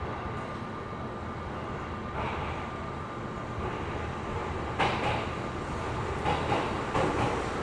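Cabin of a stationary Seibu New 2000 series electric train waiting to depart: the steady hum of its onboard equipment, with a faint whine in the first few seconds. Scattered knocks and clatters start about two seconds in and grow louder from about five seconds.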